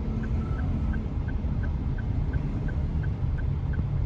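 Car turn-signal indicator ticking steadily, about three ticks a second, over the low rumble of the engine and road.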